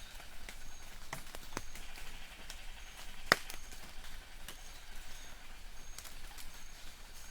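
Light rain in a forest: scattered drops tapping and dripping on leaves, one sharper drip about three seconds in. Faint, short, high bird chirps repeat in the distance.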